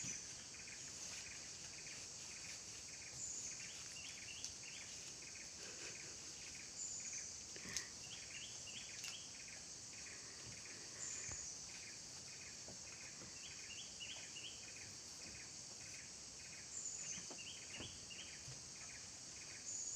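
Steady high-pitched insect chorus, with short groups of chirps repeating every few seconds.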